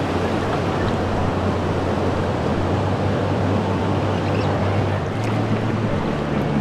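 River water rushing steadily, with a low hum underneath that shifts up in pitch about six seconds in.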